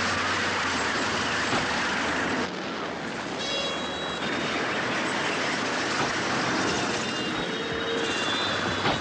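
Vehicles passing close by: a steady, loud rushing drone of motors and tyres, dropping a little in level about two and a half seconds in, with brief faint squeals.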